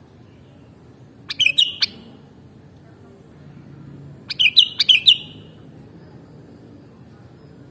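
Sooty-headed bulbul (kutilang) calling: two short phrases of quick chirping notes, about three seconds apart.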